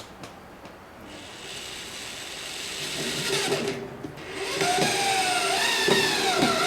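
Power drill working into sheet metal, its pitch gliding up and down as the speed changes, with a brief pause about four seconds in before it runs louder again.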